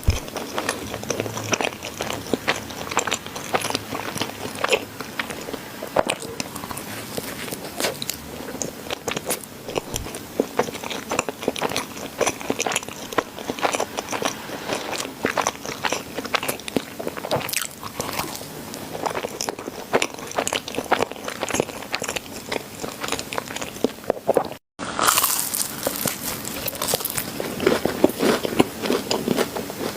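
Eating sounds of cream-filled chocolate donuts and chocolate pudding: biting and chewing with a dense run of small wet clicks. The sound cuts out for an instant about three-quarters of the way through.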